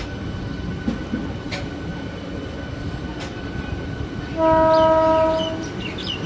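A train horn sounds once, a steady blast of a little over a second about two-thirds of the way in, over the continuous low rumble of a train.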